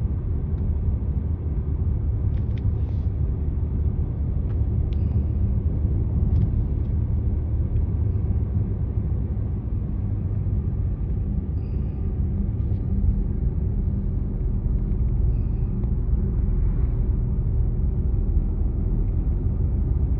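Steady low rumble of a car driving, road and engine noise, with a few faint ticks now and then.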